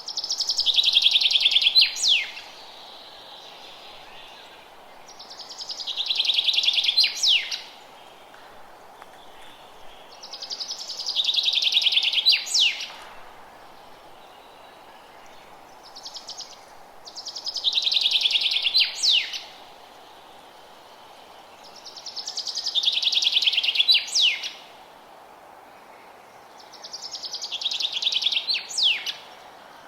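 A single songbird singing the same trilled song over and over, six times, each song about two seconds long and ending in a quick sharp flourish, with a pause of three to four seconds between songs. Faint steady background hiss.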